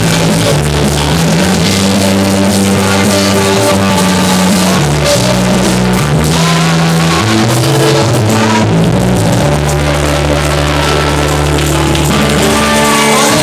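Loud band music with drums, bass and guitar, its held bass notes changing every second or two.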